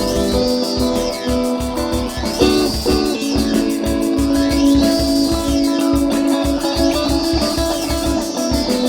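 Improvised band music led by guitar, with sustained notes over a steady, even beat.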